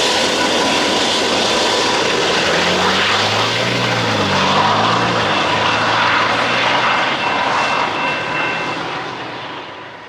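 Intermodal freight train rolling past: steady wheel-and-rail noise with thin, steady squealing tones above it. A diesel locomotive engine hum shifts in pitch between about three and five seconds in. The whole sound fades away over the last couple of seconds.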